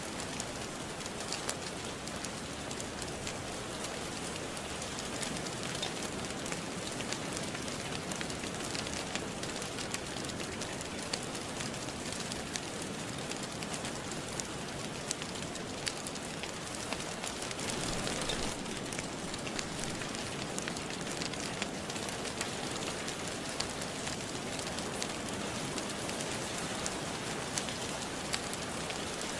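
Steady rain falling, with the pops and crackles of a wood fire in a fireplace scattered through it; the rain swells a little louder about two-thirds of the way in.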